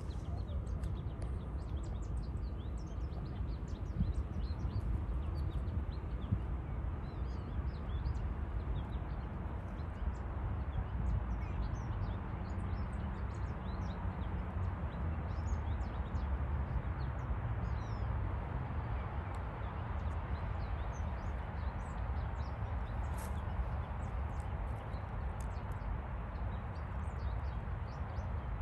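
Small songbirds chirping and singing, many short high notes from several directions throughout, over a steady low rumble.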